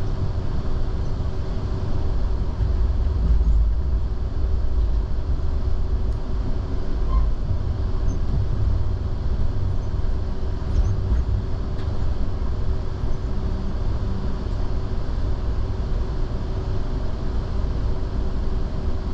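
Train running steadily, a continuous low rumble with a constant hum over it.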